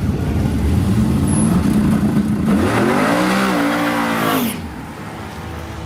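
Drag-racing truck's engine running hard, its pitch climbing about two and a half seconds in as it accelerates, then falling away abruptly near the end to a quieter engine sound.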